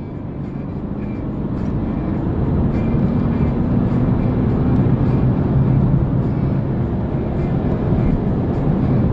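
Car engine pulling hard on a race track, getting louder over the first few seconds, under wind and road noise.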